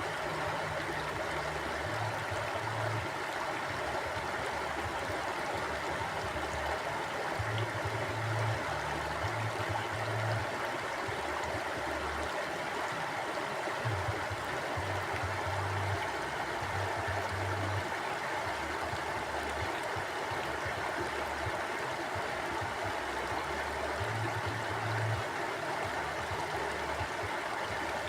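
A forest mountain stream flowing steadily, its water making an even, unbroken rushing sound.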